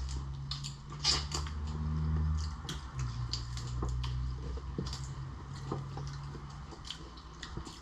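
Close-up eating sounds of lobster and shrimp: irregular chewing, lip smacking and small clicks of shell being handled. A low steady hum runs underneath.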